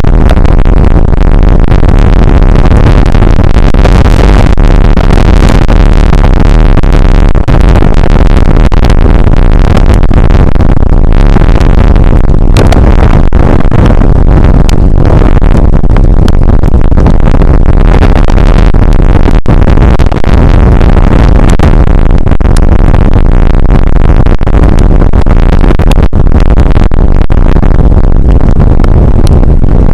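Rain shower picked up by an outdoor weather camera's microphone, overloading it: a steady, distorted wash of noise at full level.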